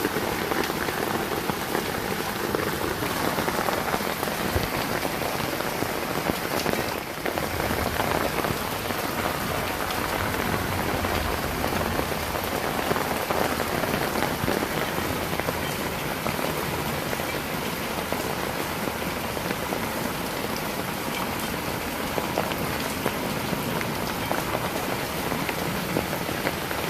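Heavy rain falling steadily: an even, continuous patter of many drops.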